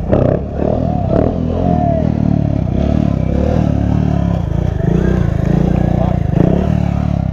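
KTM 690 stunt motorcycle's single-cylinder engine running at fairly steady revs through a stunt, with small rises and falls in pitch.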